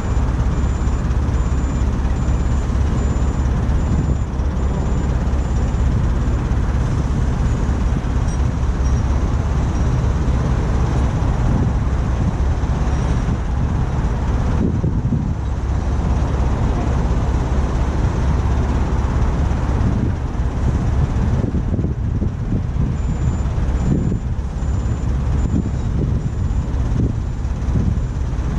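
Heavy diesel engine running steadily, a low continuous rumble with no pauses.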